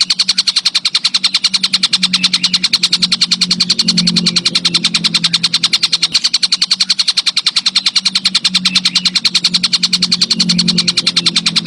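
High-pitched insect stridulation of the kind used in songbird training tracks (a cricket or bush-cricket type): a steady, rapid pulsing at about ten pulses a second that does not break. A low hum runs underneath.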